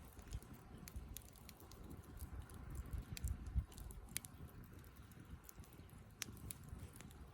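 Wood campfire crackling: irregular sharp snaps and pops over a low rumble.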